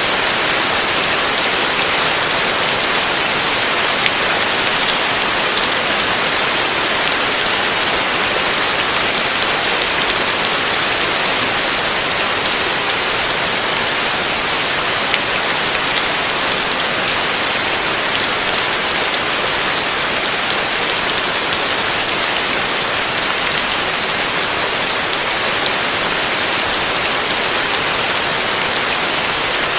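Heavy rain falling on a roof: a steady, dense hiss of drops with many fine individual taps, unchanging throughout.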